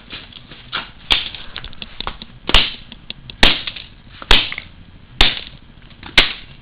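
Repeated hard blows smashing a toy car: six loud sharp strikes about a second apart, with smaller knocks and rattles between them.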